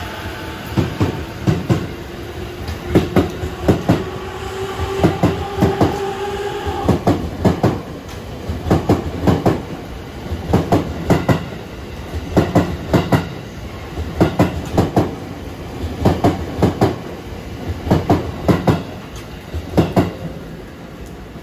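E257 series electric limited-express train pulling out past the platform. Its wheels click over rail joints in quick clusters as each pair of bogies goes by. For the first several seconds there is also a rising whine from the traction motors as it accelerates.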